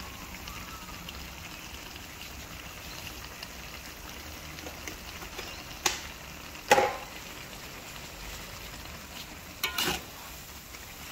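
Minced chicken filling sizzling steadily in a wok. A metal spatula scrapes and knocks against the wok a few times in the second half, loudest about two-thirds of the way in.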